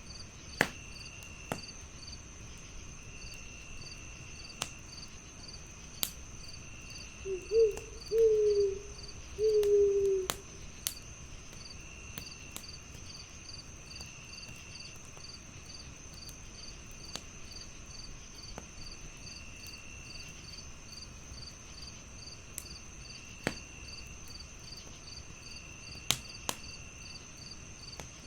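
Crickets chirping steadily, with a wood fire crackling in sharp, scattered pops. About seven seconds in an owl hoots several times in a row, the last hoot the longest.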